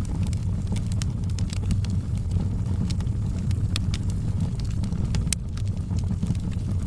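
Wood fire crackling in a fireplace: frequent sharp, irregular pops and snaps over a steady low rumble of the burning fire.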